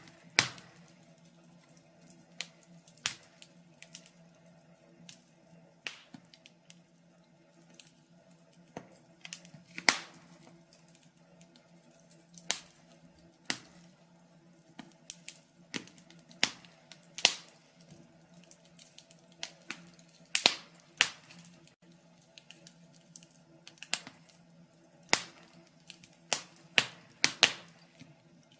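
Wood fire in a fireplace crackling: irregular sharp pops and snaps from the burning logs, several close together at times, over a faint low steady hum.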